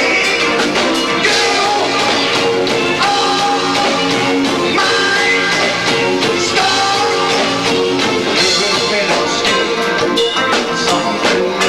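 Live rock band with two drummers playing loud and continuous, recorded through a 1990s camcorder's built-in microphone. Guitar, drums and a voice can be heard.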